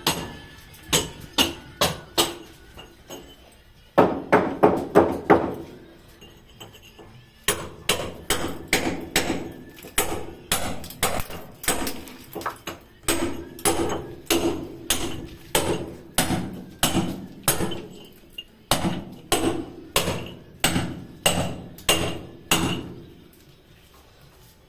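Repeated hammer blows, about two to four a second, in runs with short pauses between them.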